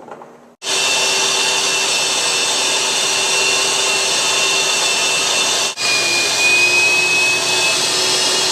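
Wet/dry shop vacuum running loud and steady while it pulls rainwater out of soaked carpet. It starts abruptly about half a second in and breaks off for an instant a little past the middle.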